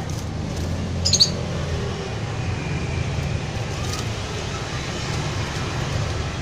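Steady low background rumble with a domestic canary giving a short high chirp about a second in, and a few faint thin calls and clicks later on.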